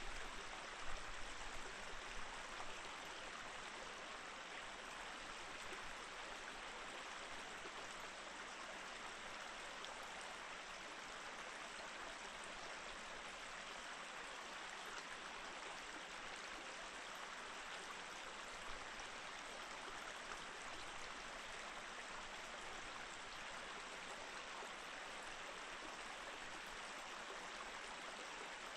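Mountain stream flowing steadily over rocks, an even rush and babble of water. A few louder low bumps come in the first couple of seconds.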